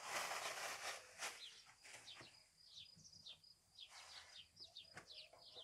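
Small birds chirping over and over in short, high, downward-sliding notes. A brief rustle in the first second is the loudest sound, and there are a couple of faint clicks.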